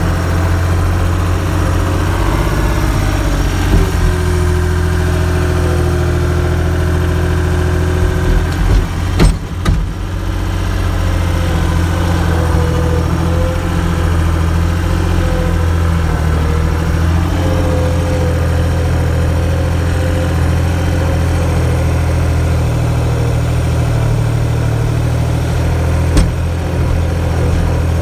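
An engine running steadily at idle, with a few knocks about nine to ten seconds in and a single knock near the end.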